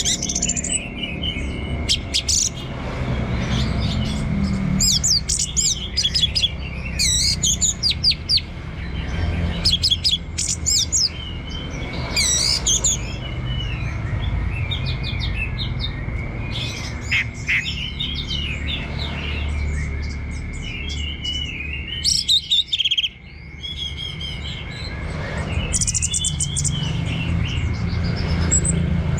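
Orange-headed thrush singing: a varied run of gliding whistled phrases and fast high trills in bursts every second or two, over a steady thin high tone and a low rumble.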